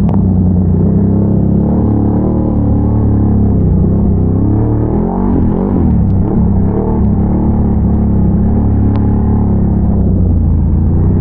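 Big-bore Can-Am Renegade ATV engine running under way, its pitch dipping and rising with the throttle around the middle.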